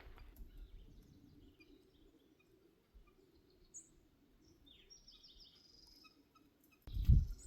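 Faint bird calls over quiet outdoor background: a short high chirp, then a quick run of high descending notes about five seconds in. A loud low thump, like a footstep, comes near the end.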